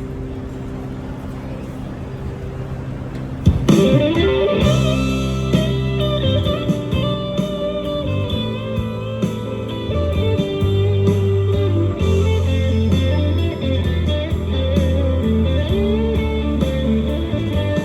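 Instrumental break in a band song: soft held chords, then about three and a half seconds in a louder electric guitar lead with bending notes comes in over a steady bass line.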